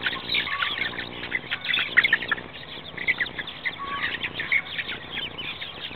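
A flock of young chickens peeping and chirping, many short high calls overlapping.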